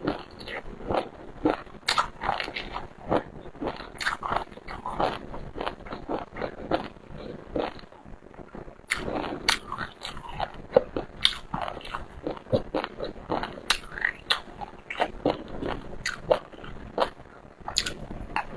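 Close-miked eating of seafood: repeated bites and chewing with crunching and crackling, a brief lull about halfway through.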